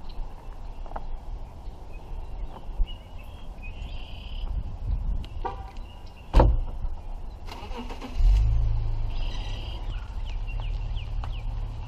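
A sharp thump about six seconds in, then the tow vehicle's engine cranks and starts about eight seconds in and runs on steadily with a low hum.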